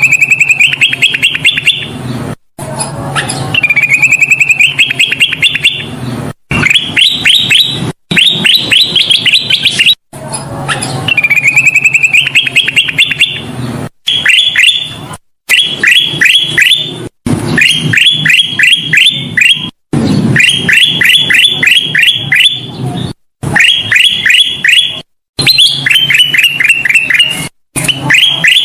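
Kutilang emas bulbul singing loudly: rapid series of sharp chirps and rising trilled notes, repeated in phrases of about two seconds that stop abruptly with short silent gaps between them, as in a looped lure recording.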